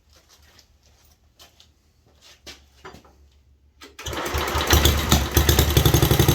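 Faint clicks, then about four seconds in the 1967 Unico tractor's 7 hp Briggs & Stratton single-cylinder engine starts and runs loud with a fast, even firing. It is running on a small shot of fuel poured into the carburetor: its first start after 27 years of storage.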